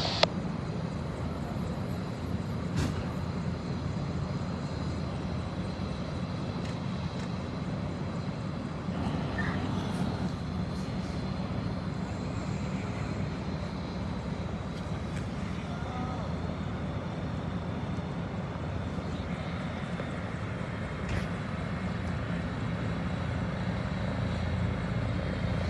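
Medical care-flight helicopter running, a steady low drone of engine and rotor.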